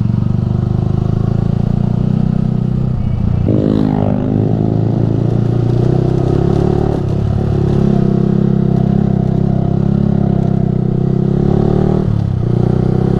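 Yamaha R15 v3's 155 cc single-cylinder engine running through a Ronin Musashi aftermarket exhaust while riding. Its note breaks and climbs in pitch about three and a half seconds in, and dips briefly near the end.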